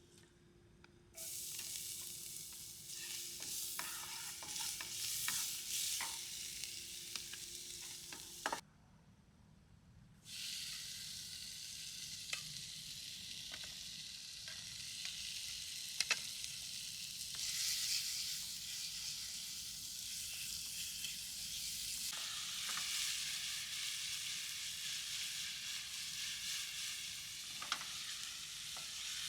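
Food sizzling in a frying pan, with a few sharp clicks over the sizzle. The sizzle starts about a second in, cuts out for about two seconds, then resumes.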